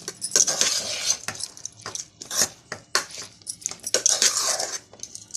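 A spoon scraping and clinking against a pot or bowl in quick, uneven strokes while cooked ragi vermicelli is being mixed with grated coconut.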